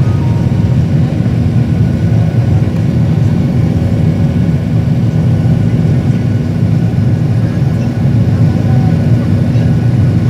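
Aircraft engines at takeoff power, a loud, steady low rumble with faint steady tones above it.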